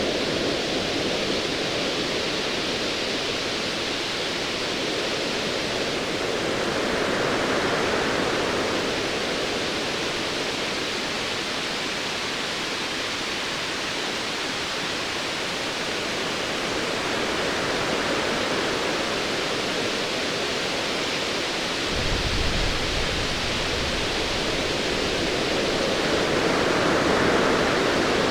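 Ocean waves washing in and out in slow swells, a steady rushing sound. Late on, a low rumble of distant thunder rolls in beneath the surf.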